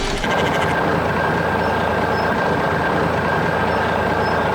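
A truck engine running steadily, with a steady high whine over it.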